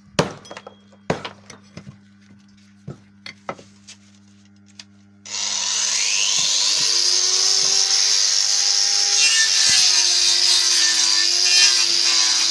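A few scattered knocks and clicks of wood being handled, then about five seconds in a power tool starts abruptly and runs steadily, cutting into wood with a wavering pitch.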